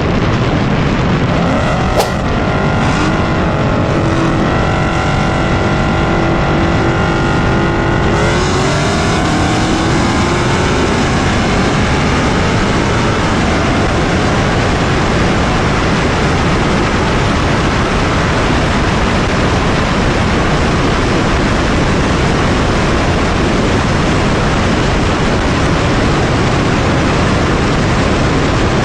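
A car driving hard: a steady engine note over a loud rushing noise breaks off about eight seconds in, then climbs again in pitch before sinking back into the rush.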